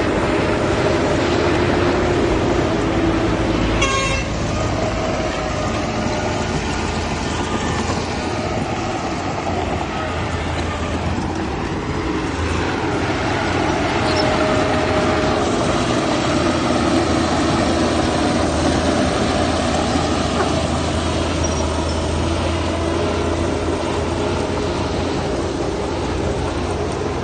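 Heavy diesel machinery running steadily at a landfill site, engines droning with slight changes in pitch and a short clatter about four seconds in.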